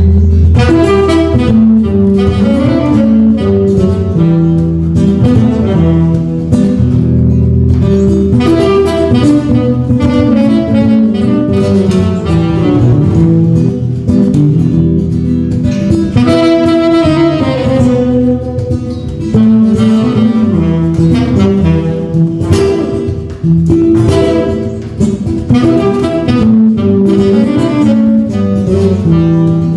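A small instrumental trio playing jazz-style music live, a melody line over a moving bass line.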